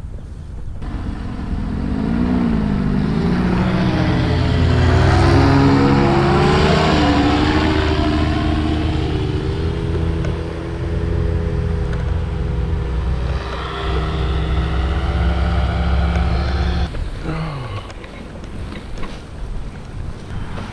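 Small paramotor engine running, its pitch wavering up and down at first and then holding steady, until it cuts off abruptly near the end with a brief falling tone.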